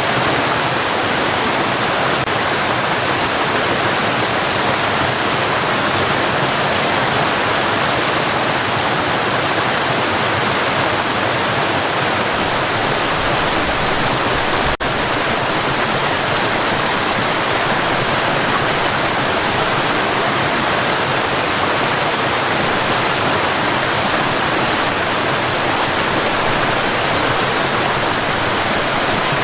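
Steady white noise: an even, continuous hiss with no rhythm or pitch, broken only by a momentary dip about halfway through.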